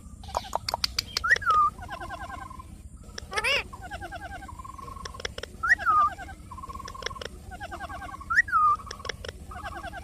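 Parrot calling: a rising-then-falling whistled call comes three times, between rapid runs of short chirps. A few sharp clicks sound near the start, and a wavering rising call about three and a half seconds in.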